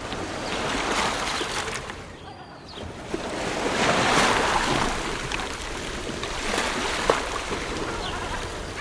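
Ocean waves breaking and washing up the shore in repeated swells, with a lull about two seconds in and the loudest surge about four seconds in.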